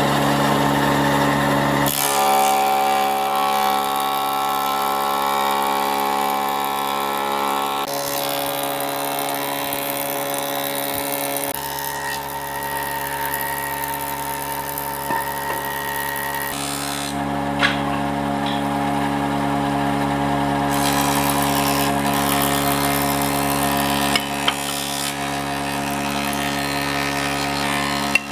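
Electric power woodworking machine running steadily with a motor hum, its sound shifting abruptly several times. A few sharp clicks come in the second half.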